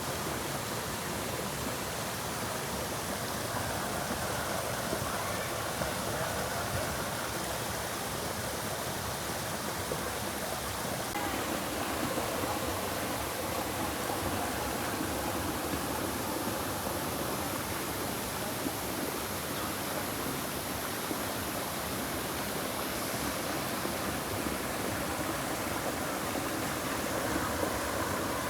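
Steady rushing of spring water spilling over a small waterfall into a swimming hole.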